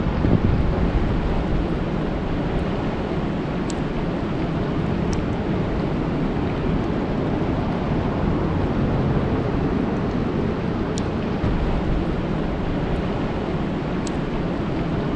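Steady rain falling on a lake, a dense, even hiss heavy in the low end, with a few sharp drop ticks scattered through it.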